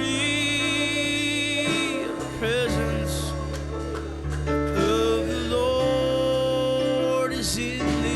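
Gospel music with singing over sustained instrumental chords: long held vocal notes that slide between pitches.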